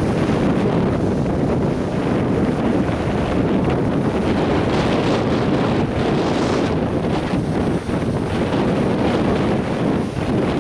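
Atlantic Ocean surf breaking on a sandy beach, with wind buffeting the microphone. The hiss of a breaking wave rises about halfway through and then fades.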